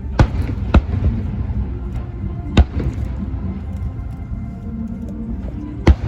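Fireworks bursting in four sharp bangs, two close together at the start, one a few seconds later and one near the end, over music playing steadily.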